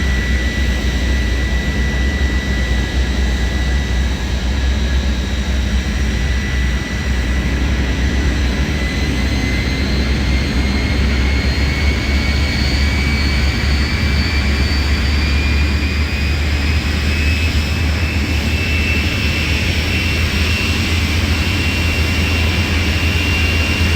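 Vampire jet car's turbojet engine running during start-up: a steady deep rumble under a high turbine whine. From about a third of the way in, the whine climbs slowly in pitch as the engine spools up, then holds near the end.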